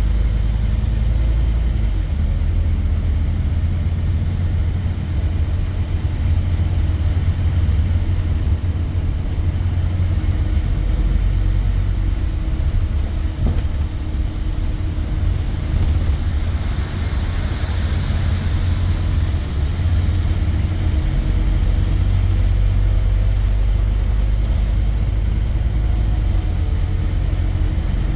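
Scania N230 bus's diesel engine running as the bus drives, a steady low rumble, with a hiss swelling and fading a little past the middle.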